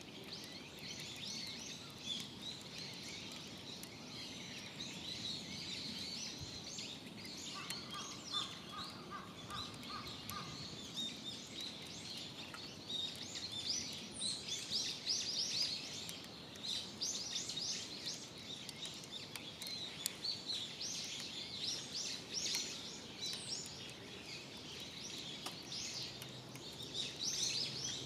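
Birds chirping and singing, many short calls overlapping, busier in the second half. About eight seconds in, a short run of repeated lower notes.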